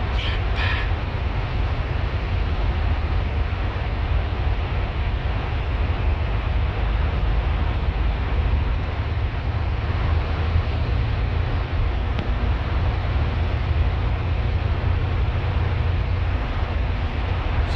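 Cabin noise inside a moving bus: a steady engine and road rumble with a deep low drone under an even hiss.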